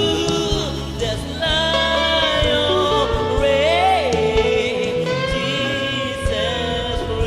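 Gospel worship music: singing over keyboard, bass and drums, with long held sung notes.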